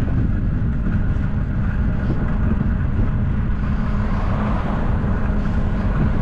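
Steady low rumble of wind on the microphone and a bicycle's tyres rolling, heard while riding.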